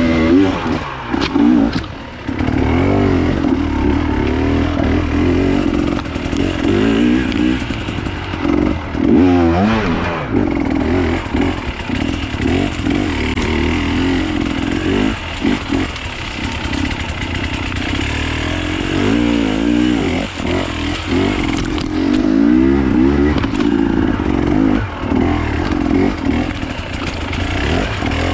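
Enduro dirt bike engine running and revving up and down over and over as it is ridden off-road, its pitch rising and falling with the throttle.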